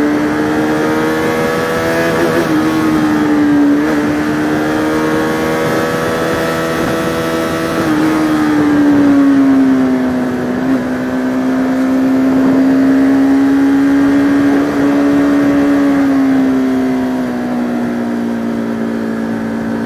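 Bajaj Pulsar RS200 motorcycle's single-cylinder engine running steadily under way, its pitch drifting gently up and down with a few brief dips, over a hiss of wind and road noise.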